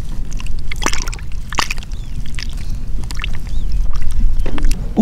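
Water sloshing and splashing over a steady low rumble, with sharper splashes about a second in and again half a second later.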